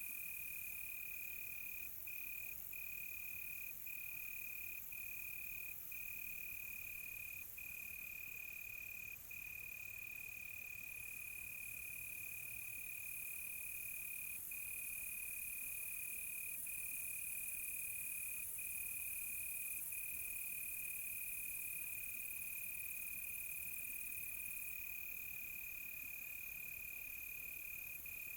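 Cricket trilling: one continuous high, steady note broken by brief gaps, over a faint high hiss.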